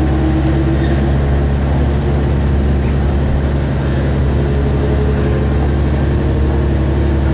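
Steady low engine drone of a single-car diesel railcar running along the line, heard from inside the passenger cabin.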